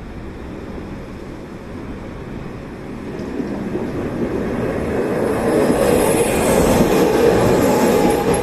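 Light-rail tram on the Utsunomiya Light Line, its running noise growing louder from about three seconds in and loudest near the end as it draws close.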